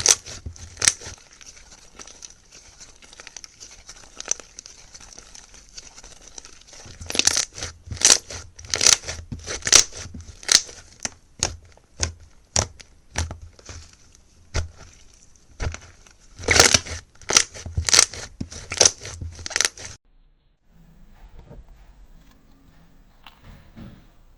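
Slime being squeezed and pressed by hand, giving irregular crisp crackles and pops. The crackling stops abruptly about twenty seconds in, leaving only faint, quiet handling sounds.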